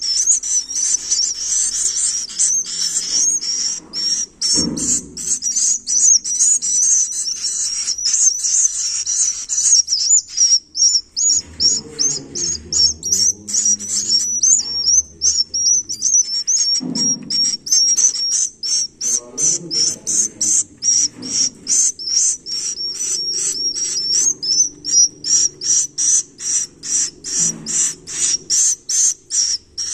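Swiftlet chicks calling: a continuous, rapid run of short high chirps at about three a second, the chicks' calls to the parent bird.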